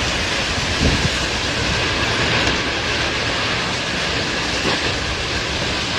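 Tornado winds: a steady, dense rush of noise with a low rumble, the wind buffeting the microphone.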